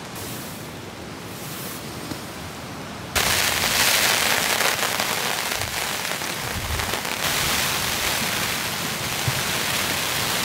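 Rain falling, a steady hiss that jumps suddenly much louder about three seconds in and stays heavy.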